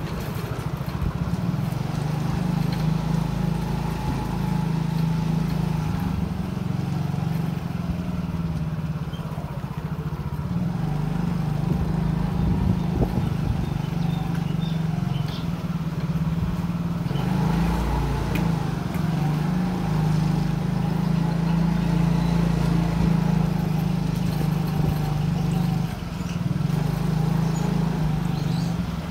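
Small motorcycle engine running steadily while riding, its pitch shifting slightly with the throttle, over road and wind noise.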